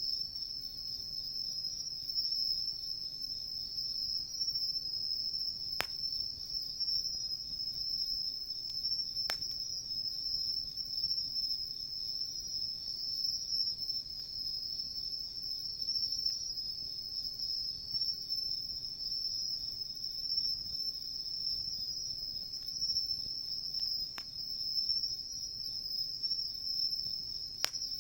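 Steady chorus of insects chirping, with a few single sharp pops from the wood campfire.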